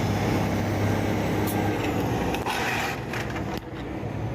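Truck engine running while driving, heard from the cab, with a brief hiss and a few clicks about three seconds in, after which the engine noise drops.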